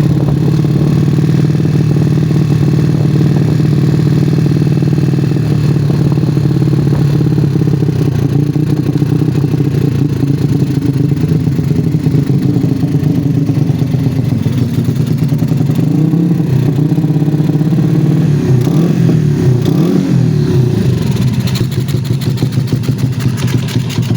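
Yamaha Jupiter 5TP motorcycle engine running through a loud aftermarket exhaust, a steady deep drone that rises and falls in pitch in the last third as the throttle changes.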